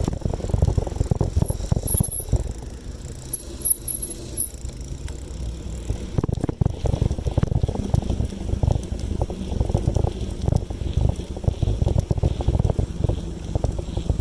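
Wind buffeting the microphone on a moving bicycle, an uneven low rumble. Faint short high chirps sound a few times in the first few seconds.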